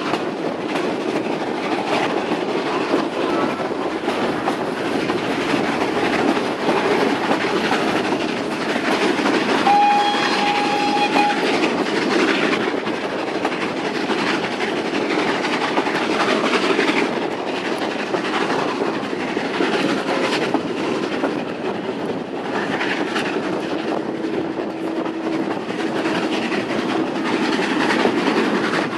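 Steam-hauled heritage passenger train running along, heard from an open carriage window: a steady rumble with wheels clattering on the rails. About ten seconds in, a short high whistle sounds.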